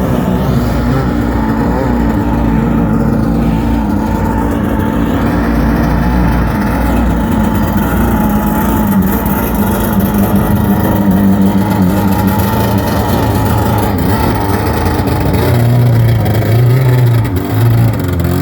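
Small jet boat's carbureted gasoline engine running hard under throttle, its pitch wavering, with a couple of brief dips in revs near the end.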